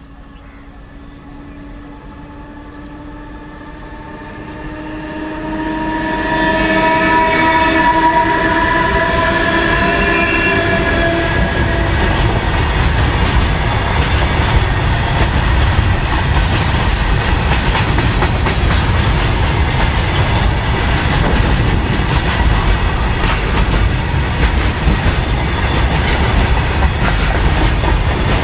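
Electric freight locomotive's horn sounding one long blast that grows louder as it approaches and dies away about twelve seconds in. From about six seconds the freight train passes close by: a loud, steady rumble and clatter of the wagons' wheels on the rails.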